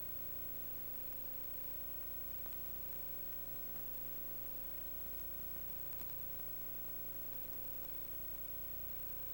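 Steady electrical hum and hiss with a constant faint tone, broken only by a few faint clicks.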